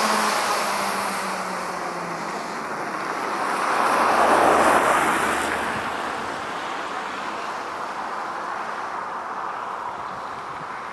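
A road vehicle passing by: a swell of tyre and engine noise that rises and falls about four to five seconds in, then steady road noise.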